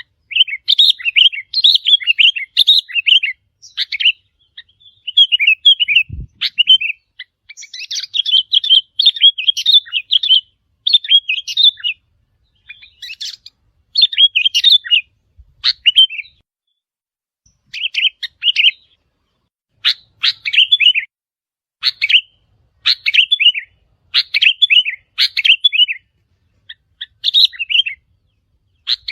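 Sooty-headed bulbul song: short, bubbly chirping phrases repeated every second or two with brief pauses. A single low thump comes about six seconds in.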